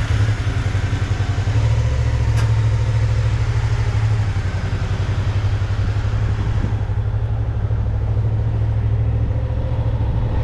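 Suzuki V-Strom motorcycle engine running steadily on the move, a low engine note with a rush of wind over it; the wind rush eases about two-thirds of the way through.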